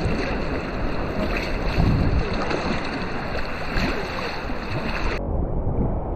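Strong wind buffeting the microphone over rough sea washing around a sea kayak, a loud steady rush. About five seconds in, the hiss loses its top end abruptly.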